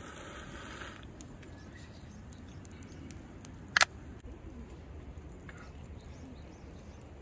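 Wood and charcoal fire crackling softly, with scattered small ticks and one loud sharp pop a little before the middle.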